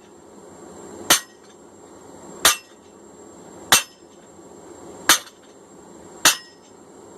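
Blacksmith's hand hammer striking a hot forged cross peen hammer head on the anvil, dressing and cleaning up the head: five evenly spaced blows, a little over a second apart, each with a short metallic ring, over a steady background hiss.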